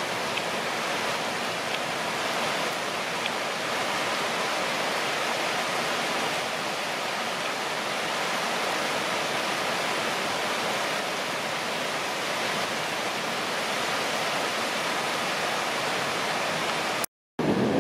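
Heavy rain falling steadily, an even hiss of downpour. It cuts out for a moment near the end, then starts again deeper.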